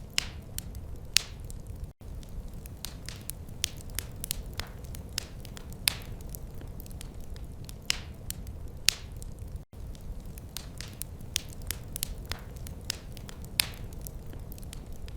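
Wood fire crackling: frequent irregular sharp pops and snaps over a low steady rumble of flame. The sound cuts out for an instant twice.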